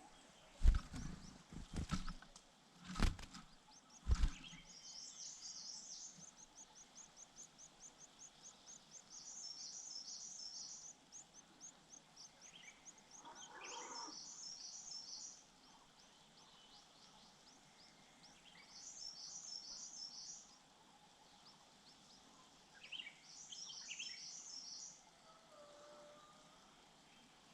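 Grey-cheeked fulvettas chirping: a long run of thin, high chirps, about five a second, broken every few seconds by short bursts of denser twittering. In the first four seconds a few loud knocks sound around the nest.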